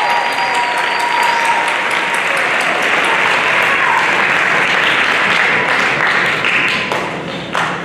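Audience applauding, dense and steady, dying down near the end.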